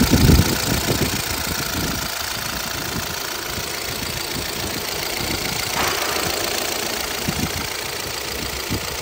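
A 2012 Chevrolet Cruze LTZ's petrol four-cylinder engine idling with a rough, tractor-like knocking. It knocks at idle but not when revved, and a replaced cylinder head has not cured it. A loud thump comes at the very start.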